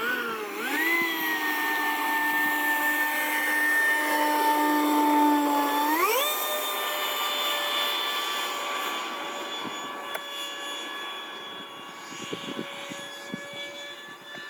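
Electric ducted-fan whine of a Freewing F/A-18 90mm RC jet under power. The pitch rises just after the start and holds steady, then steps up sharply about six seconds in as the throttle is advanced. It slowly grows fainter toward the end.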